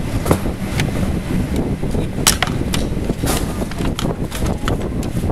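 Irregular sharp clicks and knocks, roughly two a second, of metal tools and parts as a power supply is taken apart, over a steady low rumble.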